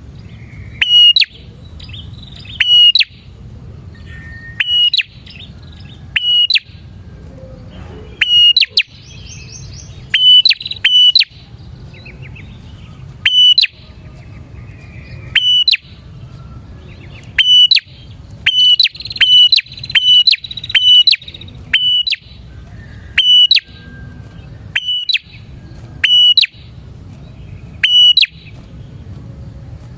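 Prenjak (a prinia) calling loudly: short, sharp, crackling chirps that flick upward in pitch, repeated every one to two seconds and sometimes doubled, with softer twittering in between over a low steady hum.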